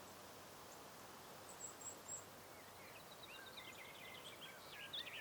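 Faint songbird calls: a few thin high notes, then a quick twittering run of short chirps over the second half, over a steady background hiss.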